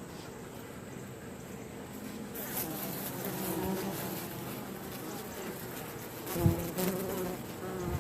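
Honey bees buzzing in a steady hum around an open hive, with a single sharp knock about six and a half seconds in.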